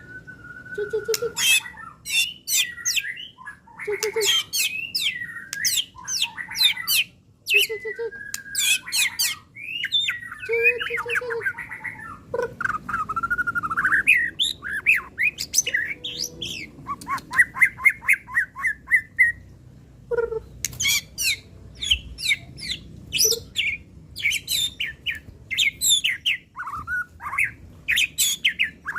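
White-rumped shama (murai batu) singing a long, varied song. Whistled glides, sharp high notes and harsh squawking notes are mixed with a fast run of repeated trilled notes in the middle.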